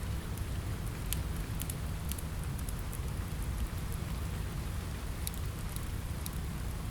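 Steady rain pattering against a window over a crackling wood fire: an even hiss with a low rumble beneath, and small sharp crackles scattered throughout.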